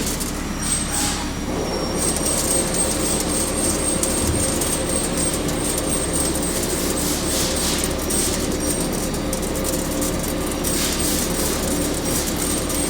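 Mazak QT200 CNC turning lathe running under a turning operation: a steady mechanical hum with a thin high whine that sets in about two seconds in.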